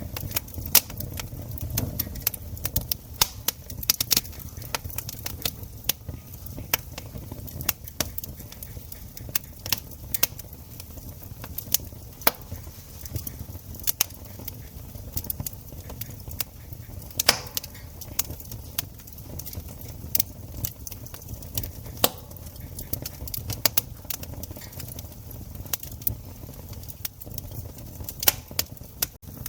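Campfire crackling: irregular sharp pops and snaps, several a second and some much louder than others, over a low steady rumble.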